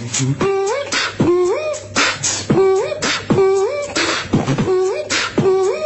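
A man beatboxing: a fast, steady rhythm of sharp mouth clicks and hissing snare-like strokes, with a hummed note that slides upward on each beat.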